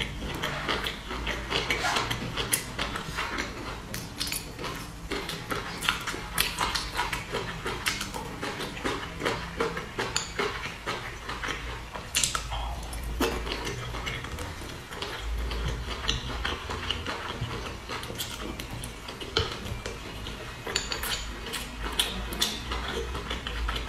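Close-miked wet chewing and lip-smacking of soft boiled dumplings, with irregular clicks of chopsticks against a glass dipping bowl.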